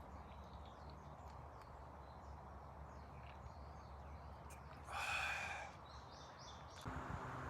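Faint outdoor woodland ambience with scattered short bird chirps. About five seconds in, one louder harsh bird call lasts under a second, followed by a few quick chirps.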